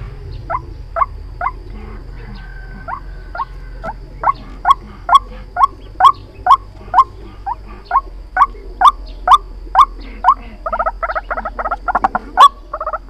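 White-breasted waterhen calling: short notes falling in pitch, repeated about two a second and growing louder, then breaking into a fast rattling series near the end. It is the bird's call as used to lure waterhens into traps.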